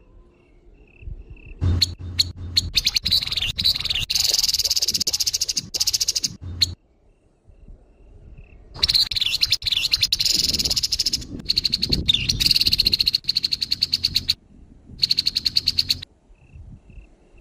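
Grey-headed babbler giving harsh, rapid rattling calls in two long bouts, the first starting about two seconds in and the second running from about nine seconds to sixteen.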